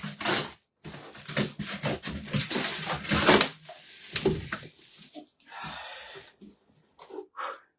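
Polystyrene packing squeaking and scraping against cardboard as it is worked out of a box, a long stretch of dense rubbing for the first three seconds or so, then a shorter rasp near the middle.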